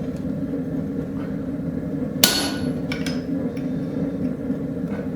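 A hammer blow on steel as a mark is struck into a hot railroad spike's handle: one sharp ringing strike about two seconds in, then a lighter tap, over a steady hum.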